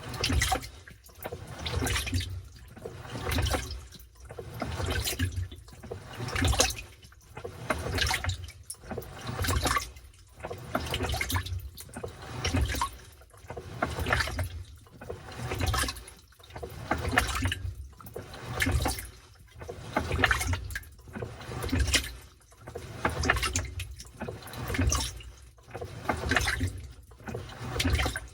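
Washing machine agitating a load in water: rhythmic surges of sloshing and churning, about one every second and a bit, as the washer turns back and forth during the wash cycle.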